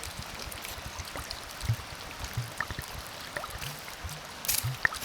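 Water being poured into a camp cooking pot: a steady trickle with a few dull knocks as the pot and container are handled.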